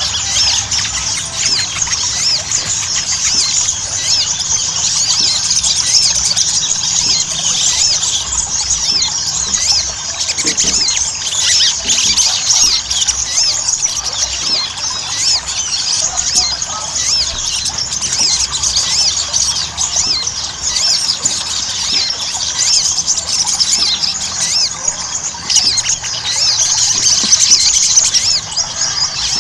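Little spiderhunter (sogon or sogok ontong) singing without pause: a dense, unbroken stream of rapid, high-pitched chirping notes. It is the busy 'ngobra' singing of a bird in full song, played to coax other sogon into singing.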